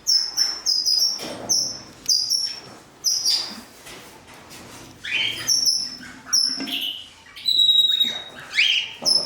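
Cockatiels chirping: a run of short, high chirps again and again, then sharper rising calls and one longer held whistle about eight seconds in.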